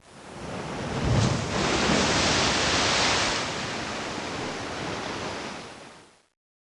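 A rushing noise like surf or wind, with no pitch, swells up over the first second or so, holds, then fades and stops shortly before the end.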